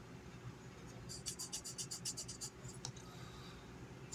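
Faint handling sounds of a folding pocket knife: a quick run of about ten light ticks, a couple of single clicks, then one sharp click right at the end.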